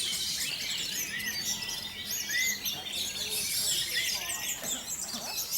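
A dense chorus of many caged songbirds chirping, whistling and trilling over one another without a break, a 'kolonian' of the kind heard at a songbird contest.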